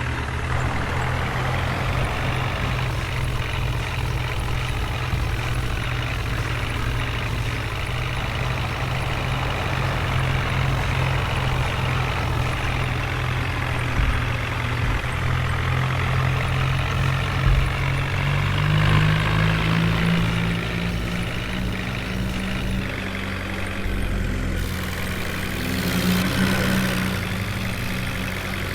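Heavy diesel engine running steadily, its pitch stepping up about two-thirds of the way through as it is revved.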